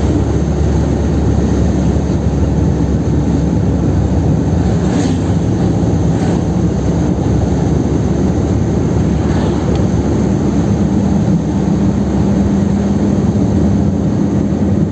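Kadett 1.8's naturally aspirated four-cylinder engine and road noise heard from inside the car at highway speed, a steady loud drone. About ten seconds in, a steady engine tone comes up over the rumble.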